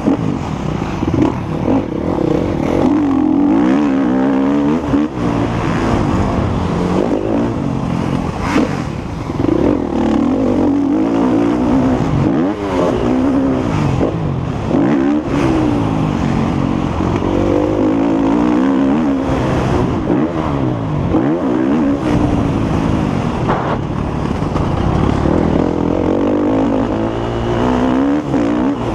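Motocross bike engine revving hard and falling back again and again, its pitch climbing through each gear and dropping as the throttle is shut, as the bike is raced around the track.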